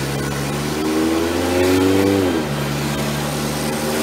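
Car engine heard from inside the cabin as the car pulls away. Its pitch climbs for about a second, drops sharply a little over two seconds in, then settles steady.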